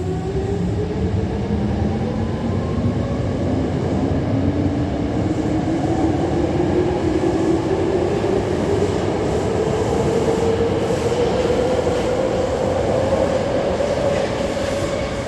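Hankyu 7000 series electric train pulling away from a station: its traction motors whine in two tones that rise slowly and steadily in pitch as it accelerates, over the rumble of the running gear.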